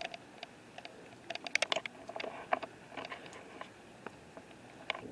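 Scattered light clicks and taps of a hand-held camera being handled, with a quick cluster of them about a second and a half in.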